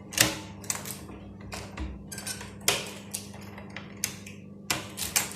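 Hard objects clicking and clattering irregularly, about a dozen sharp knocks, over a steady low hum.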